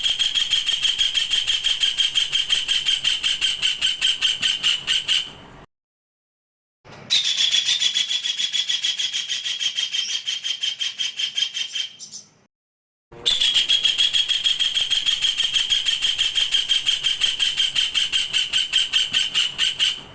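A songbird's coarse rapid-fire 'tembak kasar' song: long bouts of fast, harsh, high-pitched repeated notes, about six a second, broken twice by short silences.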